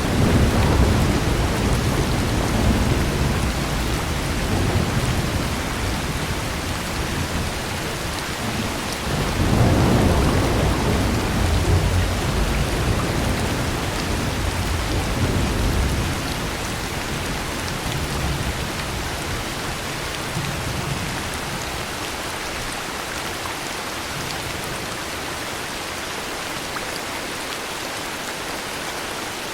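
Heavy rain falling steadily, with rolling thunder rumbling from the start. The thunder swells again about ten seconds in and dies away after about sixteen seconds, leaving only the rain.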